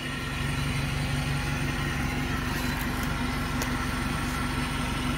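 Off-road 4x4 vehicle's engine running steadily at idle.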